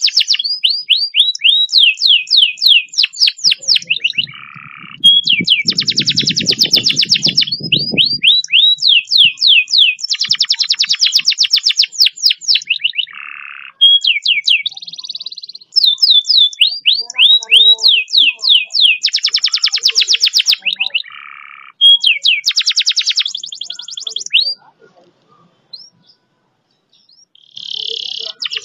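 Domestic canary singing a long song of fast rolls: phrases of rapidly repeated sweeping notes and dense trills, broken by short pauses. The song stops about 24 seconds in, and a brief phrase follows near the end. A low rumble sits under the song for a few seconds early on.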